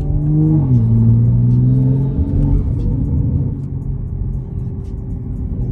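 Toyota GR Supra (A90) engine heard from inside the cabin while driving: the revs rise, drop sharply with an upshift under a second in, climb again, then ease off after a few seconds.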